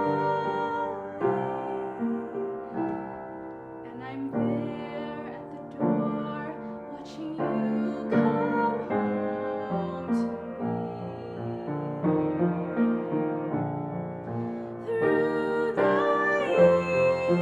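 Piano playing a slow passage of sustained chords, the chords changing about every second.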